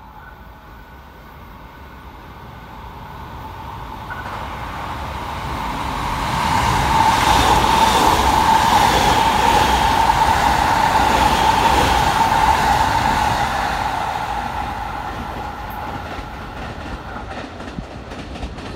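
A JR West 681 series limited express electric train, two coupled sets, passing through a station at speed without stopping. The rumble of wheels on rail builds over about six seconds and holds at its loudest, with a steady high hum, for several seconds. It then fades as the train draws away.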